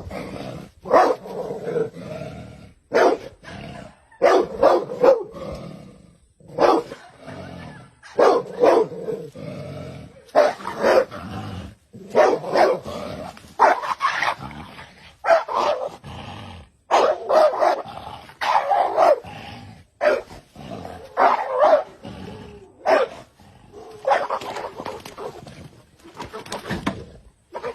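A dog barking at a snake, with loud barks in quick clusters every second or two throughout.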